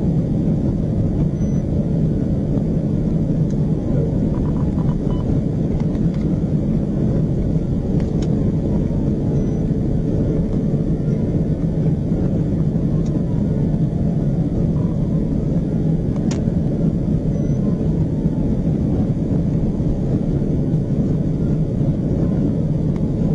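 Steady road and wind noise of a patrol car driving at high speed, heard from inside, with a faint siren wailing up and down underneath.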